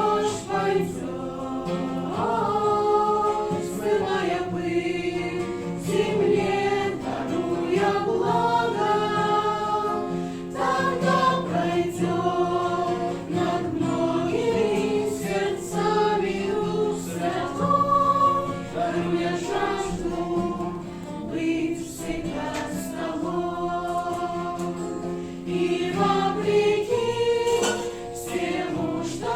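A choir singing a Christian worship song, several voices together holding sustained notes.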